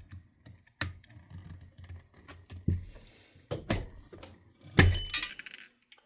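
Metal ceiling-fan parts knocking as the tight switch housing is worked loose. There are a few sharp knocks, then a loud jangling clatter of metal about five seconds in.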